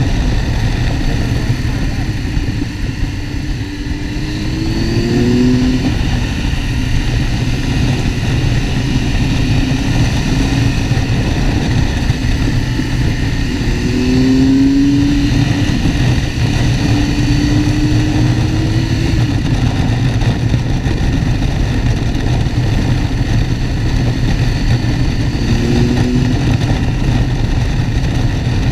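Motorcycle engine running under way, with steady low wind rumble on the microphone. The engine note rises and falls a few times: a few seconds in, around the middle, and near the end.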